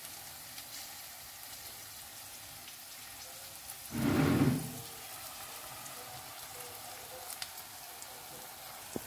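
Faint, steady sizzle of food frying in a pan, with one brief louder sound about four seconds in.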